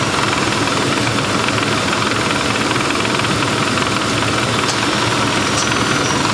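1995 Lincoln Town Car's 4.6-litre V8 idling steadily, running the A/C compressor while the system is charged with R-134a refrigerant.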